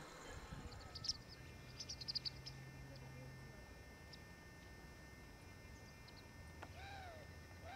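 Faint, short high bird chirps, then near the end a few faint arching calls over a quiet background.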